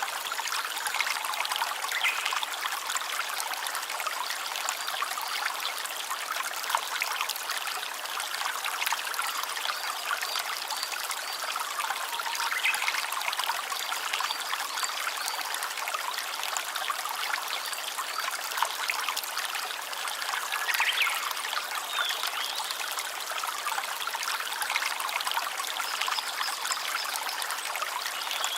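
A small stream trickling and splashing steadily, with no pauses or changes.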